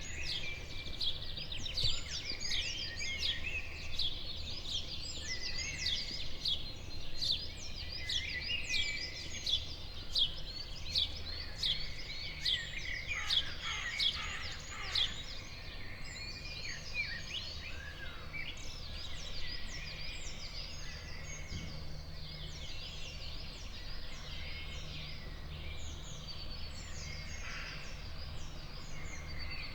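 Morning chorus of many small birds chirping and twittering all at once, dense at first and thinning out after the middle, over a steady low hum.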